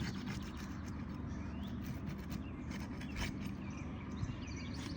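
Scattered clicks and crackles of a sealed asphalt roof shingle being pried loose from the one below, with a few short bird chirps.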